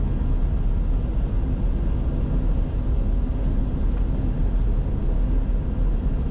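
Steady low rumble of airflow and engine noise inside a Bombardier Challenger 605's cockpit on final approach, gear down and flaps at 45.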